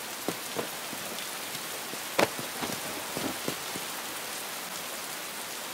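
Steady rain falling, an even hiss, with a few scattered sharper taps; the loudest comes about two seconds in.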